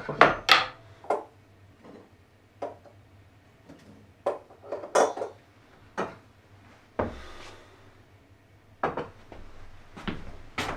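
Irregular knocks and clatter of hard objects being handled: about a dozen sharp hits at uneven intervals, the loudest cluster at the start and another about five seconds in.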